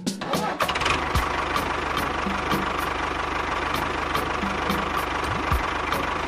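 A mini tractor's motor running steadily at a constant pace with a fast, even knock, plus light regular ticks about two or three times a second.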